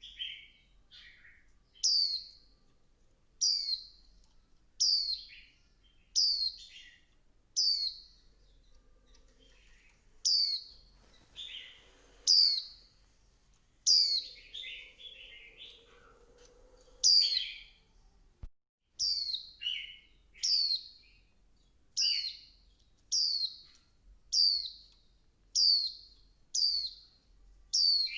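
Female white-eye giving short, sharp call notes that drop steeply in pitch, repeated steadily about every second and a half, some with a lower trailing note. This is the female's call used to excite male white-eyes into singing. The sound cuts out briefly about two-thirds of the way through.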